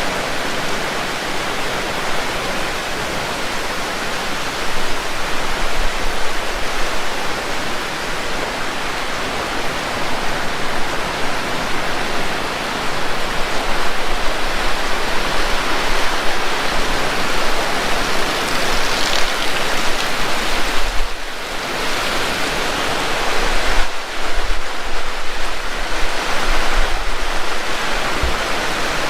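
Heavy rain pouring steadily, a dense even hiss. Strong wind gusts on the microphone add short low rumbles several times.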